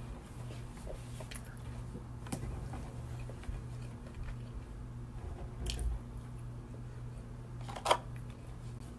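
Close-up chewing and mouth sounds of someone eating French fries, over a steady low hum. A few brief clicks, the loudest near the end.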